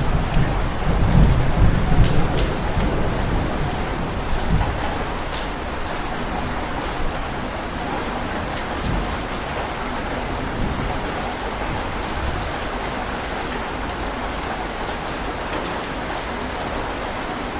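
Heavy rain falling steadily, with a low roll of thunder in the first few seconds that fades away, then the rain alone.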